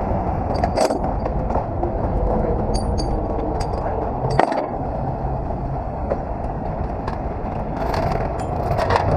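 A truck engine running steadily, with scattered sharp clicks and scrapes: a few single clicks, then a cluster near the end.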